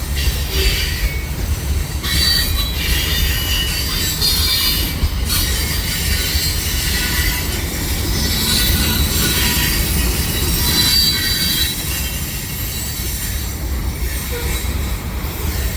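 Freight cars rolling through a tight curve: steel wheels squealing in shifting high-pitched tones over a steady low rumble. The squeal comes from the wheels grinding against the rail on the curve.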